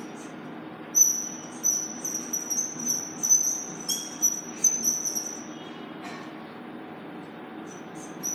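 A quick series of short high-pitched squeaks, starting about a second in and running for about four seconds, then a few more near the end, over a steady low hum.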